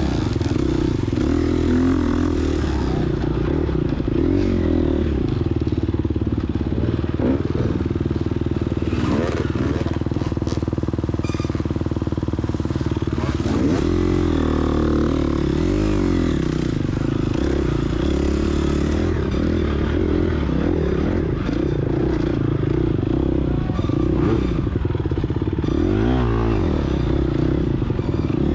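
2022 Gas Gas EX250F's single-cylinder four-stroke engine running while being ridden, its pitch rising and falling again and again with the throttle, with a few short knocks.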